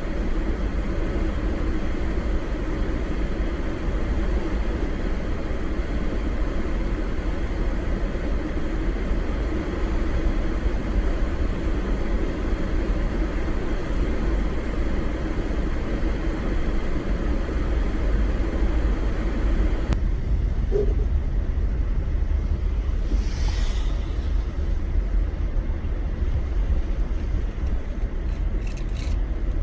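Vehicle driving: a steady low rumble of road and engine noise. The higher hiss drops away about twenty seconds in.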